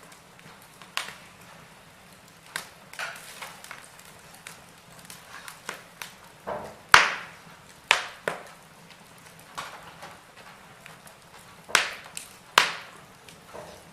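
Wood fire burning in a fireplace, the logs crackling with irregular sharp pops. The loudest pops come about seven and eight seconds in and twice more near the end.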